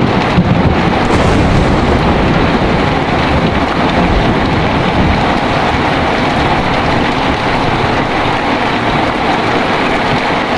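Heavy rain pouring steadily, with a low rumble of thunder dying away over the first couple of seconds.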